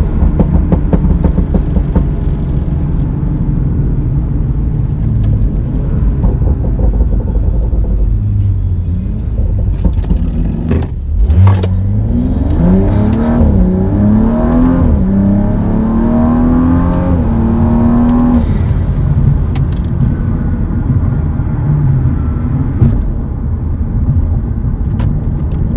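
BMW 435i's N55 turbocharged straight-six through an M Performance exhaust: a low rumble, then about halfway through a hard acceleration in which the engine note climbs and drops back several times as it shifts up through the gears, before easing off to a low rumble again.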